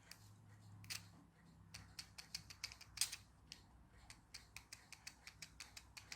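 Small plastic switch on a toy line-follower car clicked on and off over and over, a quick, irregular run of light clicks, worked repeatedly to clean its corroded, faulty contacts.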